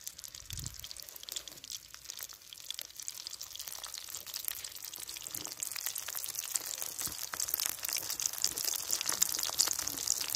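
Flour-battered banana blossom pieces frying in hot oil in a wok: a steady crackling sizzle that grows louder.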